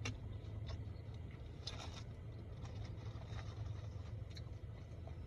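Someone eating takeout shrimp: scattered small clicks and crinkles of food and its container being handled, over a steady low hum.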